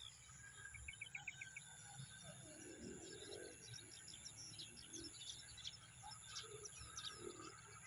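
Faint chirps of small birds, with a quick trill of about six notes about a second in and scattered short calls after it, over a low steady rumble.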